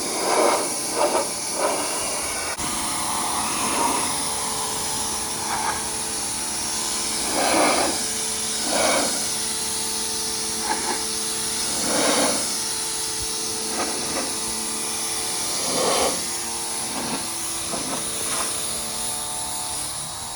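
Water spray hissing steadily as a dirty truck is washed, with louder surges every few seconds as the spray sweeps across the panels, over a steady machine hum.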